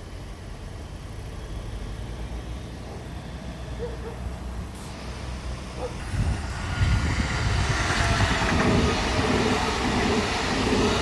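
Train passing on the rails: a low rumble for the first half, then louder from about six seconds in, with a rushing hiss and faint tones that slowly fall in pitch as it goes by.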